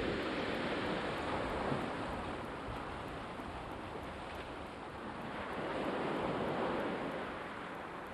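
Black Sea waves breaking and washing ashore, surging twice: once at the start and again about six seconds in.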